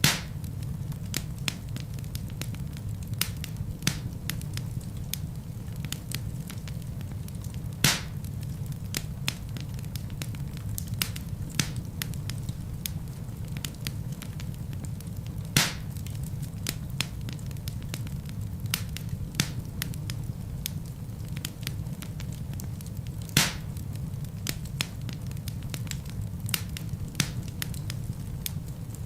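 Wood logs burning in a fireplace: constant small crackles over a steady low rumble of the flames, with a louder pop four times, roughly every eight seconds.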